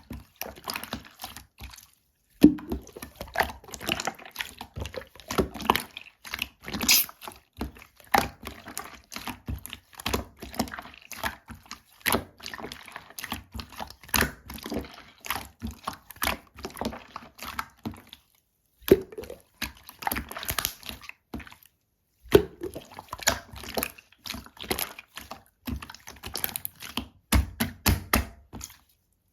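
Jelly-type slime being squished and poked by hand: a quick run of wet clicks, squelches and small pops, broken by a few short pauses.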